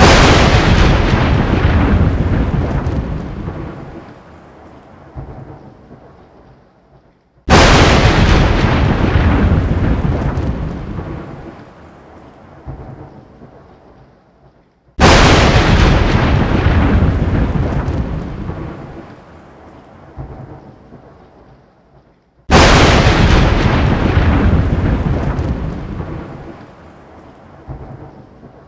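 Four thunderclaps about seven and a half seconds apart, each starting with a sudden crack and then rumbling as it fades away over several seconds.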